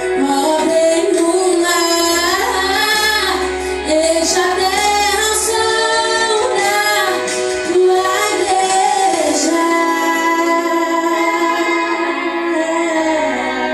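Worship music: a woman singing a melody over sustained keyboard-like accompaniment.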